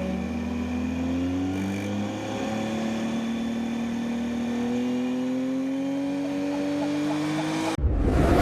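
MotoGP racing motorcycle engine accelerating, its pitch climbing steadily with one gear change about two seconds in. Near the end it cuts off abruptly into loud music.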